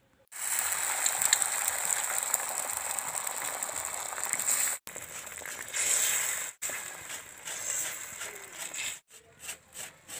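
Egg roll frying in oil on a hot pan: a steady sizzle that cuts off abruptly twice midway and thins to scattered crackles near the end.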